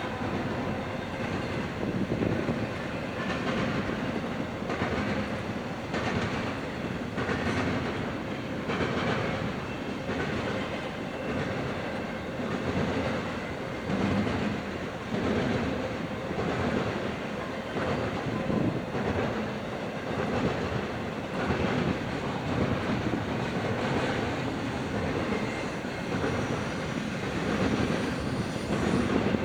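Freight train cars rolling past, a steady rumble with a regular clickety-clack of wheels over rail joints.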